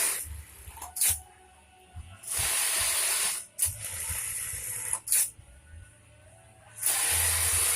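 Spray hissing onto the Juki 1850 bartack sewing machine in repeated bursts: a longer burst of about a second just after the start, another about a third of the way in and one near the end, with short quick puffs between them.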